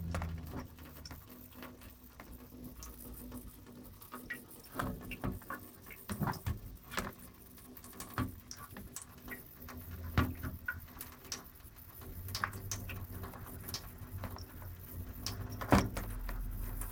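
Water from a faucet splashing as a kitten paws at the stream: irregular light splashes and taps, with sharper ones about ten seconds in and near the end.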